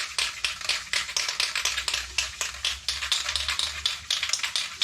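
Aerosol can of spray chain lube being shaken hard, its mixing ball rattling in a rapid, steady clatter to mix the lube before spraying.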